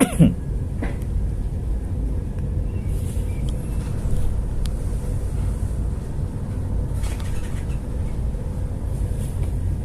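Steady low rumble of a ship under way in rough weather, with a faint steady hum above it. A brief tone falling in pitch right at the start is the loudest moment.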